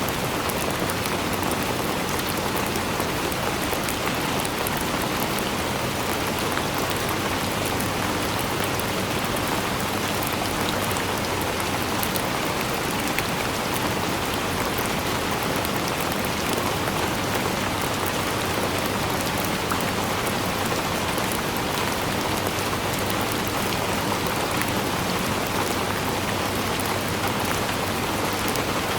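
Steady rainfall on a surface, a continuous even hiss dotted with fine individual drop ticks.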